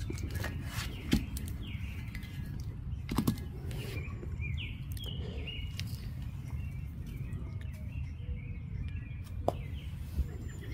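Birds chirping in short calls over a steady low background rumble, with a few sharp clicks.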